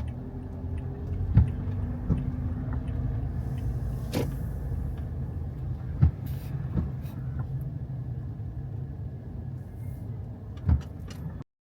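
Car driving, a steady low rumble with several sharp knocks, the loudest about a second and a half in, around six seconds and near the end. The sound cuts off suddenly just before the end.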